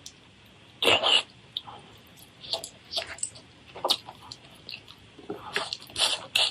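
Eating sounds: irregular crunchy bites and chewing noises, with louder crunches about a second in and near the end.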